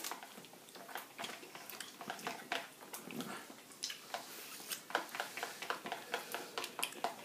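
Biting and chewing an ice cream bar: a run of irregular small crackling clicks from the mouth as the coating breaks.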